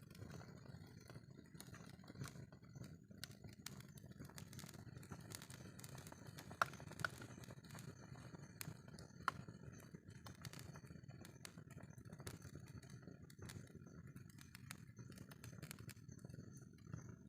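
Wood fire crackling faintly, with scattered small pops and three sharper ones around the middle, over a low steady rumble.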